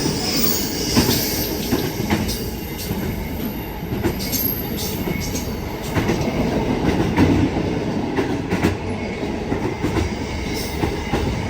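Freight train wagons rolling past on the rails, a steady rumble with irregular clacks of wheels over rail joints and a thin wheel squeal near the start.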